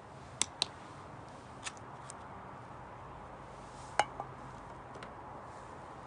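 A handful of short, sharp clicks and taps at irregular intervals, the loudest about four seconds in, over a steady faint background.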